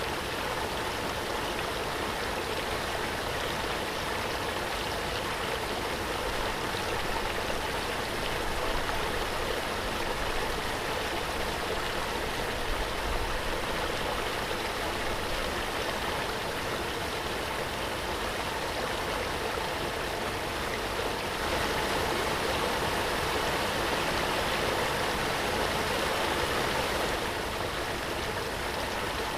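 Waterfall: water pouring and splashing in a steady, even rush. It grows a little louder for several seconds about three-quarters of the way through.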